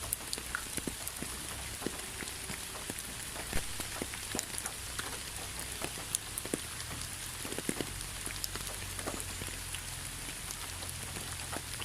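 Rain falling steadily, with a constant hiss and many separate drops ticking sharply on a surface.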